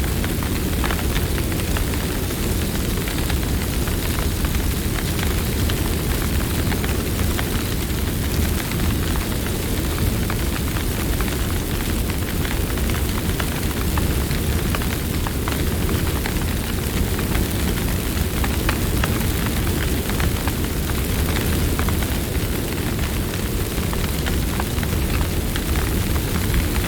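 Campfire burning steadily: a low rumble of flames with frequent small crackles and pops of burning wood throughout.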